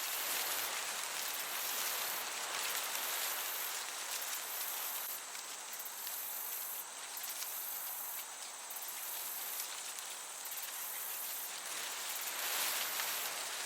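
Crickets chirping in a steady chorus over the hiss of a gentle breeze, the highest trill breaking off and resuming every second or so.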